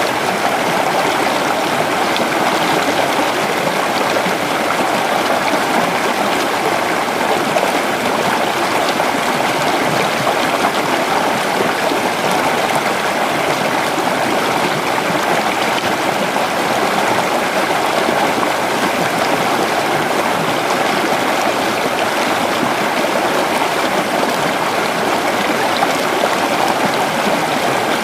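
A creek flowing over stones, a steady rushing and gurgling of running water.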